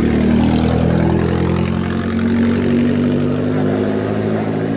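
A vehicle engine idling steadily close by, a low even hum.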